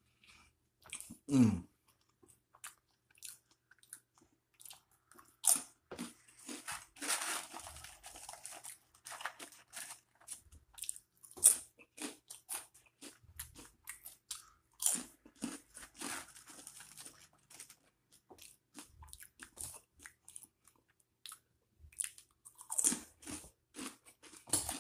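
A person eating close to the microphone: bites, crunching and chewing, in irregular bursts with short pauses.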